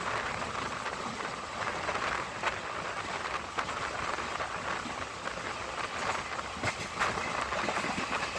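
06649 Mangalore–Nagercoil Parasuram Special passenger train running at speed on the rails: a steady rolling rush of wheels and coach, with scattered sharp clicks from the track, a few of them close together near the end.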